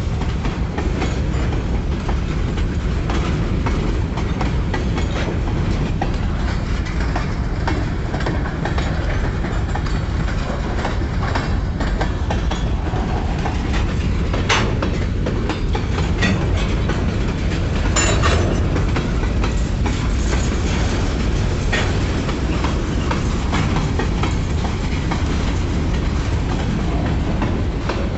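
Train rolling by slowly: a steady low rumble with scattered sharp clicks and clanks from the wheels and cars, a few louder knocks past the middle.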